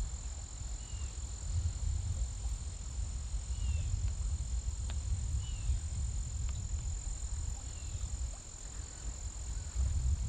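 Outdoor wildlife ambience: a steady high-pitched insect trill, a bird giving short chirps every second or two, and low wind rumble on the microphone.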